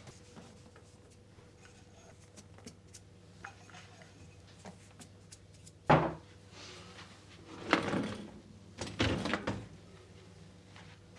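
Household handling sounds: small clicks, a sharp knock about six seconds in, then two longer sliding sounds, typical of a cupboard or drawer being worked.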